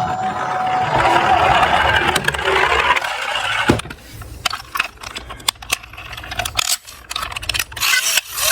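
Small diecast toy cars rolling and scraping down a toy slope, then a run of sharp clicks and clatters as the little metal cars knock and tap against each other and the track.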